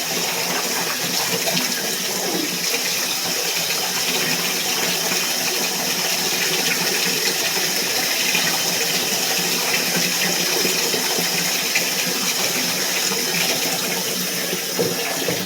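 Water running steadily from a tap or hose into a dog's bath.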